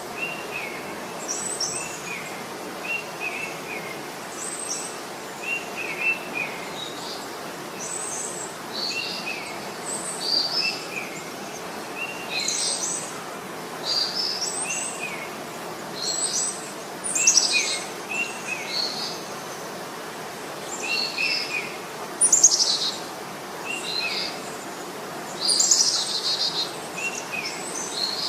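Songbirds chirping in short phrases repeated every second or two, over a steady background hiss.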